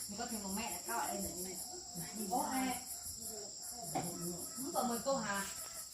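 Insects chirring steadily in a high, evenly pulsing trill, with people's voices talking indistinctly over it.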